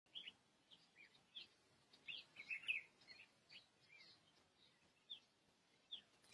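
Small birds chirping: short, scattered calls with a brief flurry about two to three seconds in.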